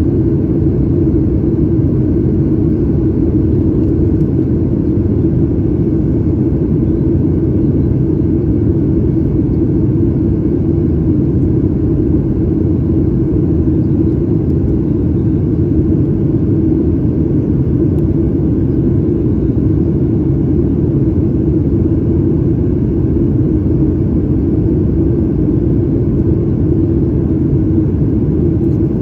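Steady low rumble of a Boeing 737 MAX 8 airliner heard from inside the passenger cabin: engine and airflow noise with no change in level.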